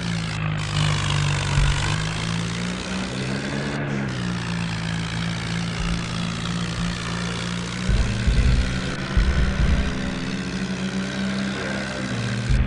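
Tractor engine running under steady power, a continuous low drone whose pitch shifts about four seconds in, with several heavy low thumps near the end.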